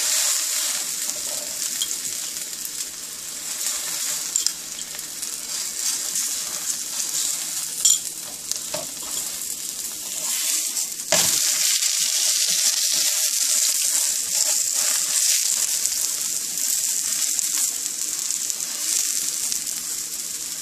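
Oiled onion paratha sizzling and frying on a hot skillet as it is pressed with a slotted spatula, with a few light clicks. The sizzle gets louder about halfway through.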